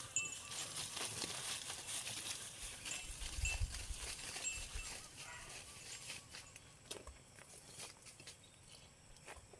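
A dog panting hard, with rustling and several short high chirps over the first half, then a scattering of sharp snaps and ticks.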